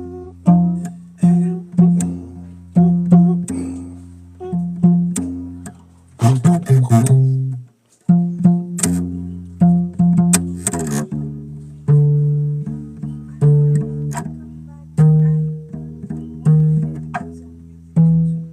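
Solo bass played by plucking, single notes ringing and dying away in a slow repeating line. A quick run of notes about six seconds in, then a brief silence before the line picks up again.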